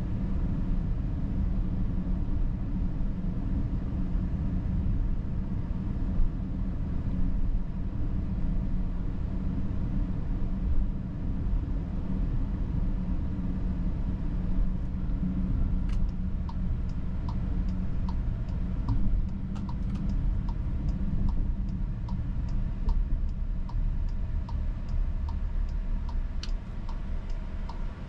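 Steady low cabin rumble of a 2022 Volkswagen Atlas driving. About halfway in, its turn-signal indicator starts ticking evenly, a little over once a second.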